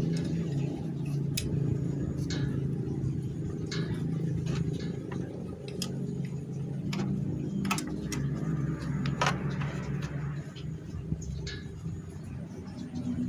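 A steady low mechanical hum, like an engine running, with scattered sharp clicks and taps over it.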